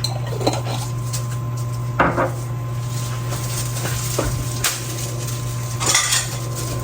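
Kitchen utensils and dishes clinking: a spoon and containers set against a pot and dishes in a handful of separate knocks, over a steady low hum.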